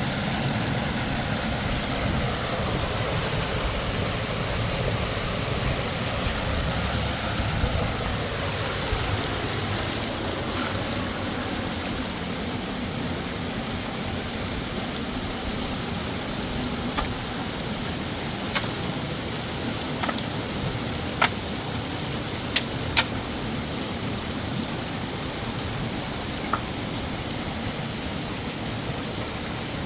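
River water flowing steadily, with a handful of short sharp knocks in the second half.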